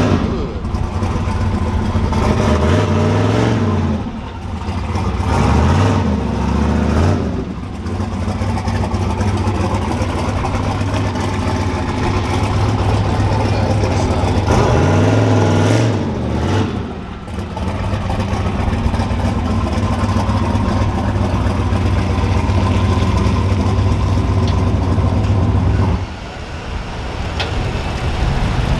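Vehicle engine idling loudly, revved up and let back down about three times. The steady engine note cuts out near the end.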